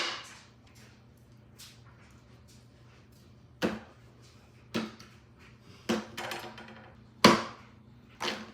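Five or six sharp knocks and clatters of objects set down or handled on a hard surface, spread irregularly, over a faint steady low hum.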